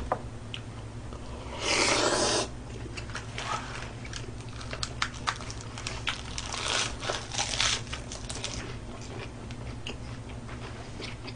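Close-miked chewing and crunching of an iceberg-lettuce wrap with grilled pork belly, lots of small crunches and mouth clicks, with a louder rush of noise about two seconds in.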